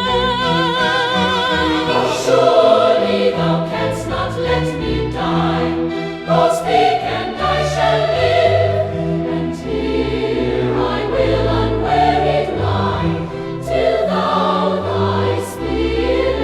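Choral hymn music: a choir singing sustained chords with instrumental accompaniment.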